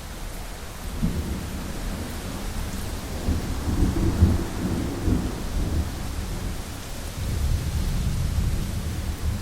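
Heavy rain pattering steadily on a window, with deep rolling thunder that builds about a second in, is loudest around the middle, and rumbles again near the end.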